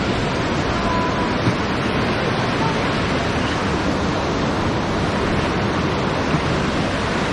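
Whitewater river rapids rushing steadily around a raft.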